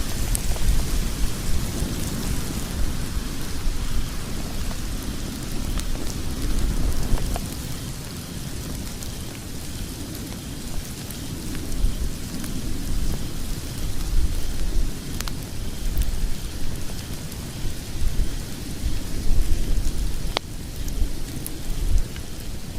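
Wood logs burning in a fireplace: a steady low rumble of flames with scattered crackles and pops, one sharper pop near the end.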